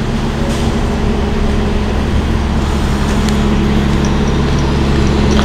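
Steady low drone of a subway train, growing slowly louder.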